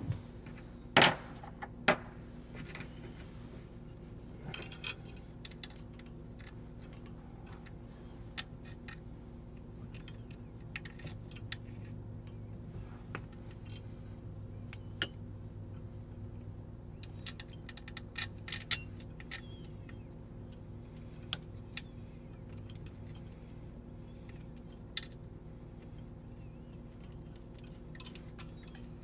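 Wrench and bolts clinking and knocking against a boat engine's alternator bracket as it is loosened and adjusted: scattered metallic clicks, with two loud knocks about a second and two seconds in, over a low steady hum.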